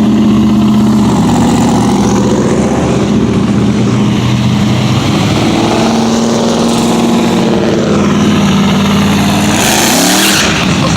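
Classic car engine running loud as the car pulls away, a low steady engine note, with the revs rising sharply about ten seconds in.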